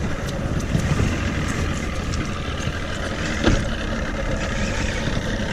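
Steady rumble of a small fishing boat's motor under way while trolling, mixed with wind noise, with a single knock about three and a half seconds in.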